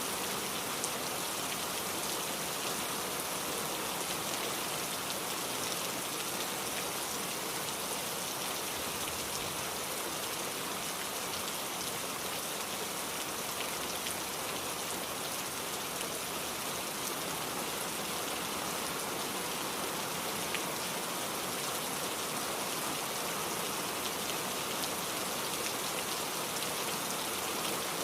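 Steady rain falling on a surface, a dense even hiss with many fine individual drop ticks.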